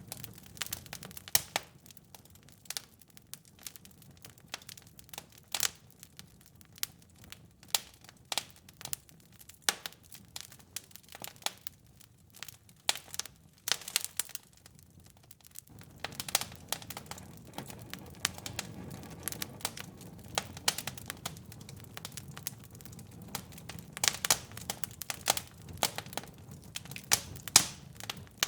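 Fire in a fireplace crackling, with irregular sharp pops and snaps. A low rumble of the flames underneath grows louder about halfway through.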